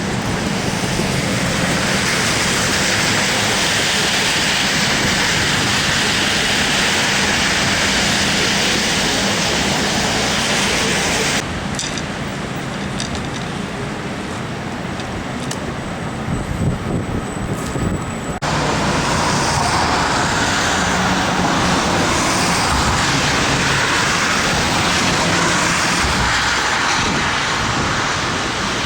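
Downtown street traffic: a steady hiss of passing vehicles. It breaks off about eleven seconds in for a quieter stretch with a few clicks, then returns suddenly about seven seconds later.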